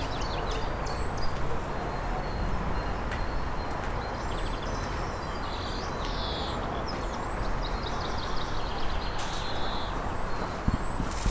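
Small birds chirping and twittering repeatedly over a steady background hiss of outdoor ambience.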